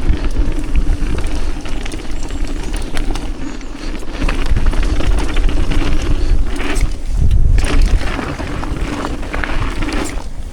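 Wind buffeting the microphone of a downhill mountain bike rider's camera, with the rumble and rattle of the bike's tyres and frame on a dirt trail.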